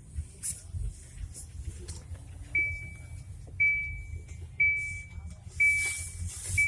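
An electronic chime sounding five times, about once a second, each a single high tone that rings out and fades, over a low steady rumble of an idling engine.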